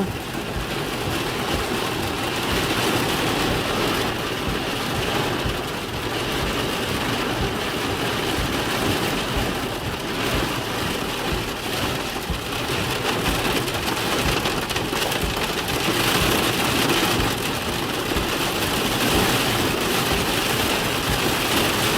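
Steady heavy rain mixed with small hail pelting down in a thunderstorm.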